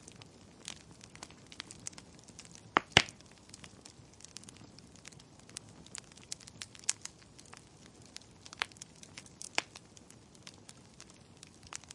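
Burning wood crackling and popping in a fireplace, with scattered sharp snaps over a low hiss of the flames and two louder pops about three seconds in.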